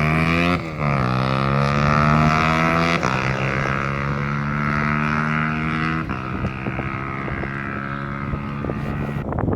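Aprilia RS4 125's single-cylinder four-stroke engine through a LeoVince sport exhaust, accelerating and shifting up: the note drops sharply three times, about half a second, three and six seconds in, and climbs again between shifts.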